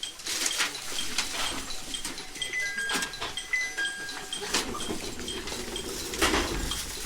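Cabin sound inside a JR East 701 series 1000 EMU: a short high electronic beep repeating about twice a second, a two-note falling chime sounding twice in the middle, and the train's low rumble building from about halfway through.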